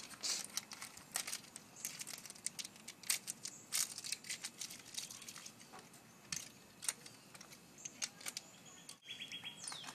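Irregular rustling, crinkling and clicking of belongings and bags being handled and shifted while packing. Near the end it cuts off briefly and gives way to a steady high tone and a short falling chirp.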